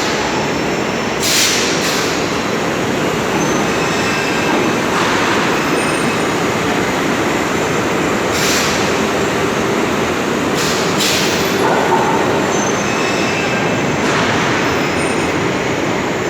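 Forklift running under heavy load, a loud steady mechanical noise with short hissing bursts every few seconds and a faint whine, as it strains to lift an engine that is too heavy for it.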